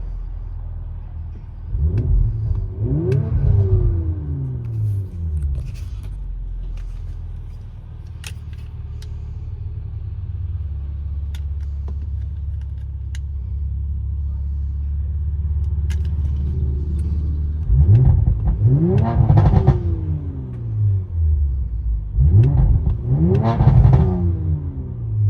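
2019 Audi RS5's 2.9-litre twin-turbo V6 through a custom full exhaust with its valves open, idling and revved three times, heard from inside the cabin: one rev about two seconds in, then two more near the end, each rising in pitch and falling back to idle.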